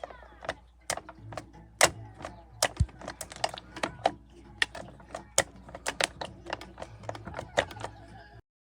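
A quick, irregular run of sharp clicks and taps, two or three a second, over a faint low hum; it cuts off suddenly near the end.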